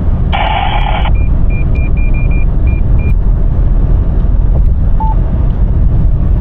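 Steady road and engine rumble inside a moving Ford Ranger's cabin. Near the start comes a short burst of noise, then a quick irregular string of short high beeps, and a single lower beep about five seconds in.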